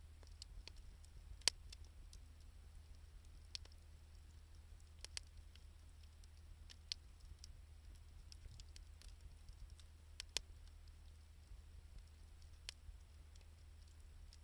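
Wood fire of scrap 2×4 lumber and scavenged sticks burning, with sparse, sharp crackles and pops every second or two, the loudest about a second and a half in. A steady low rumble runs underneath.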